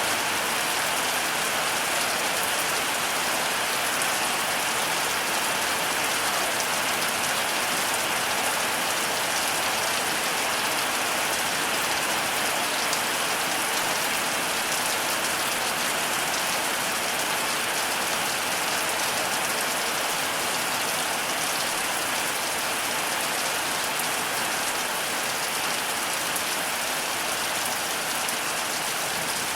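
Heavy rain falling steadily: an even, unbroken hiss of pouring rain with no thunder.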